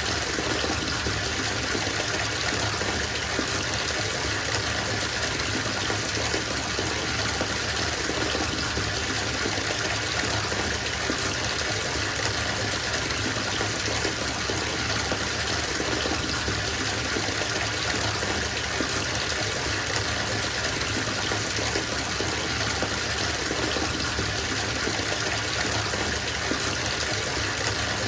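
Bathtub filling from the tap: a steady gush of water pouring into the water already in the tub.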